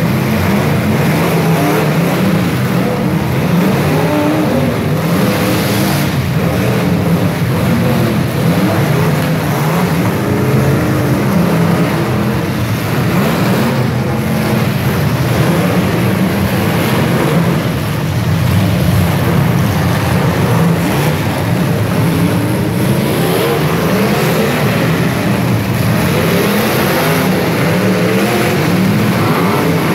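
Several demolition derby cars' engines running at once, loud and continuous, their revs rising and falling over and over.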